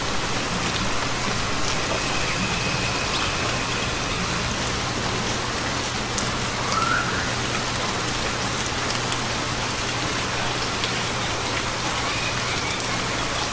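Steady rain falling, an even hiss, with a faint short call about seven seconds in.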